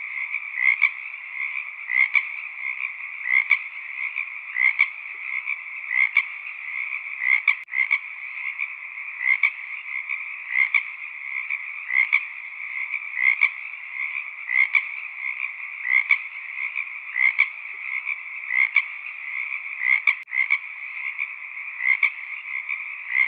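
Frog chorus: a dense, steady din of calling frogs, with louder calls repeating at an even beat about every second and a quarter.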